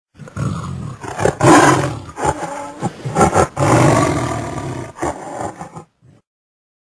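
A large animal roaring in a series of loud calls with short breaks, cutting off suddenly about six seconds in.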